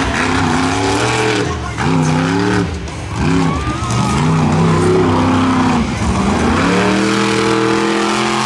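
Monster truck's supercharged V8 revving in repeated surges, its pitch climbing and dropping several times, then held at a high steady rev near the end.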